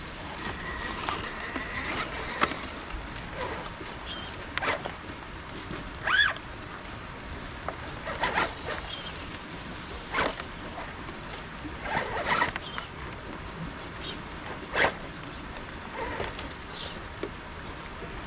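RC rock crawler's electric motor and gear drivetrain whirring in short, irregular bursts, some rising briefly in pitch as the throttle is blipped, over a steady wash of background noise.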